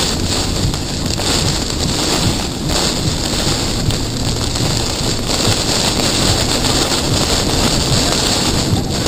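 Severe thunderstorm winds of around 80 mph, a loud steady rush with wind buffeting the microphone.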